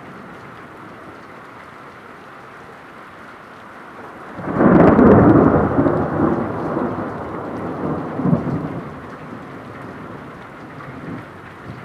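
Steady rain, then about four seconds in a loud thunderclap that rolls on as a rumble for several seconds, swelling once more near eight seconds before dying back into the rain.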